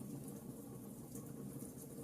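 Bonfire crackling softly over a steady low roar of burning, with a few light pops in the second half.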